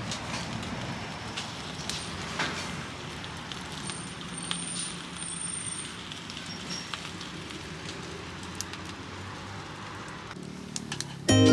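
Wood campfire crackling, with scattered sharp pops over an even hiss and a steady low rumble.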